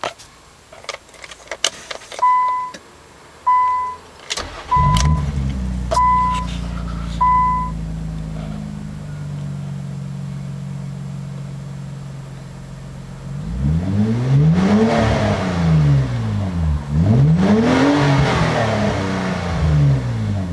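Cabin sound of a 2000 Nissan Maxima's 3.0L V6 through a Reactive MT701 exhaust with a straight pipe: a few clicks, then a warning chime beeping five times. The engine starts about four seconds in and idles high before settling lower. Near the end it is revved twice, the pitch rising and falling each time.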